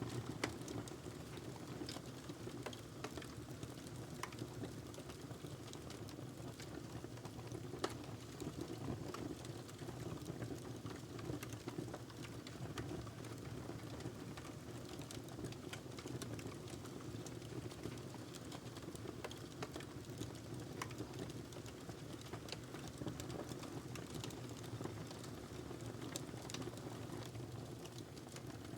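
Wood fire burning in a fireplace, crackling with frequent irregular small pops over a steady low hiss. A sharper snap comes just after the start and another at about 8 seconds.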